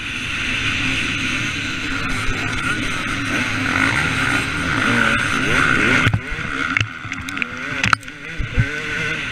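Two-stroke motocross bike engine, a KTM 250 SX, revving up and down as it is ridden, with a few sharp knocks about two thirds of the way through.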